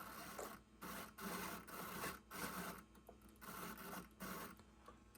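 Faint rubbing and scraping handling noises in uneven stretches, broken by short pauses.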